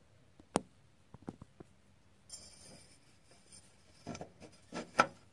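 Scattered clicks, taps and brief rubbing of hand work fitting the drive pulley and belt onto the mower engine's shaft, with a sharp click near the end.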